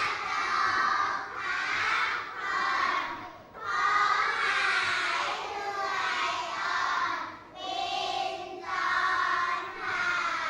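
A class of young children reciting a Thai poem aloud in unison, chanting it in short sing-song phrases with brief pauses between them.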